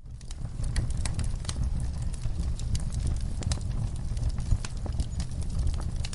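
Wood fire crackling in a fireplace: frequent sharp pops and snaps over a low steady rumble of flames, fading in from a brief dropout at the very start.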